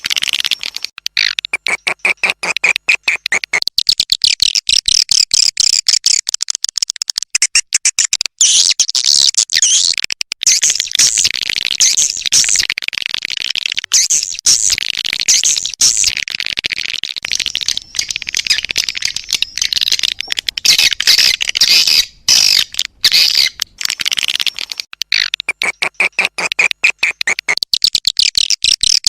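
Swiftlet lure call: a loud, dense, fast chatter of many swiftlet chirps and clicks, with buzzier, lower twittering near the start and again near the end. A recording of the kind played from a swiftlet house to call birds in to roost and nest.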